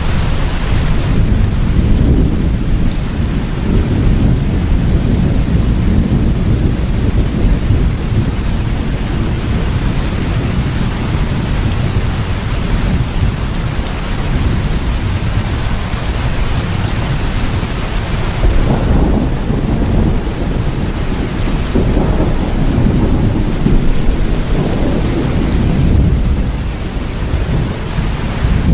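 Steady heavy rain with low rolling thunder that swells and fades in long rumbles.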